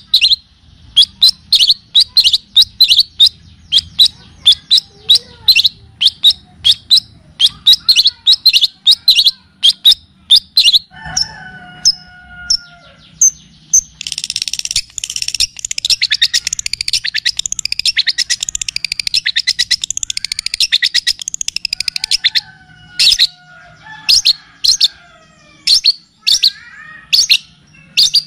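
Recorded songbird calls on a masteran training track: a fast series of sharp, high chirps a few times a second, then a few lower whistled notes, then about eight seconds of a rapid, dense chattering trill, and back to spaced sharp chirps near the end.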